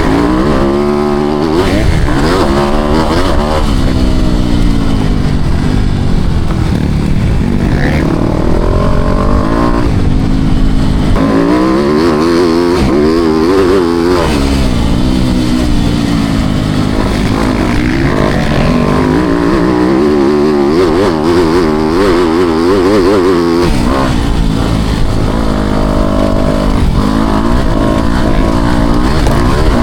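Motocross bike engine revving up and easing off again and again, its pitch climbing and falling as the bike is ridden around the track.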